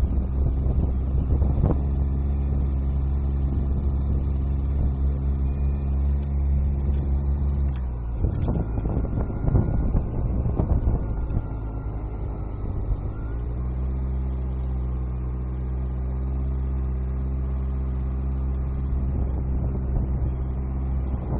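Motorcycle engine running at low, steady revs. About eight seconds in, the steady engine note drops away and a rougher, noisier sound takes over for several seconds. The engine then settles back to a steady low note.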